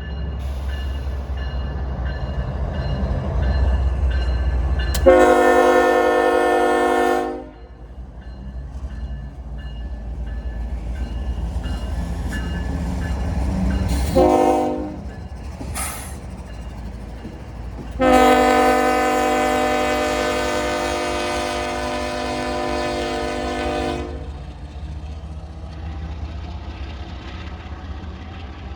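Diesel freight locomotive's multi-chime air horn sounding three times over the low rumble of the train: a long blast, a short one, then a longer blast of about six seconds.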